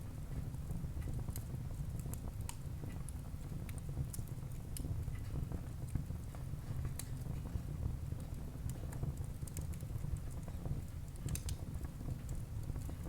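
Wood fire crackling in a fireplace: irregular sharp pops and snaps over a steady low rumble of burning, with a small cluster of pops near the end.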